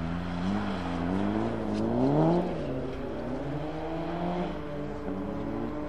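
Engine of a competing car on an ice racing track, revving up and down: the pitch climbs to a peak about two seconds in, drops back, then rises and falls more gently.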